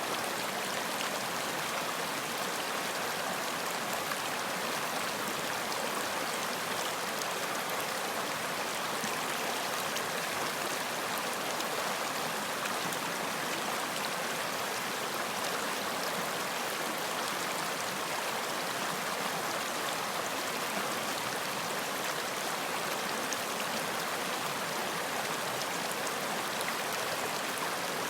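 Running water in a stream, a steady unbroken rushing and splashing.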